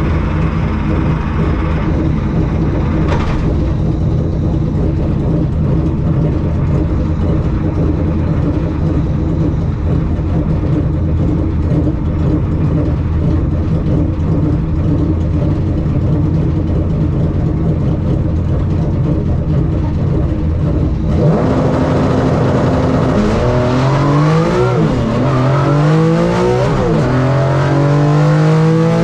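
Volkswagen Mk2 drag car's 3.6-litre VR6 running steadily at a held speed. About 21 seconds in it launches, and the revs climb and drop several times as it shifts up through its dog-box transmission.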